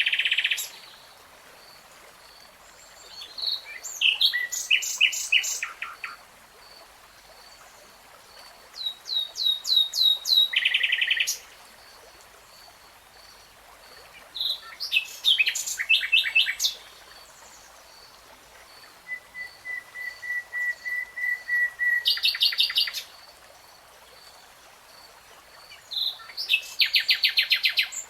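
Nightingale singing in separate phrases a few seconds apart, each a quick run of repeated notes and trills; one phrase is a series of whistled notes that grows louder. A faint high steady pulsing tone runs underneath.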